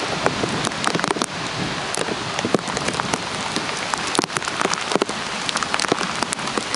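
Heavy tropical-storm rain falling steadily, with drops striking the plastic bag wrapped around the camera as many sharp, irregular taps over the hiss.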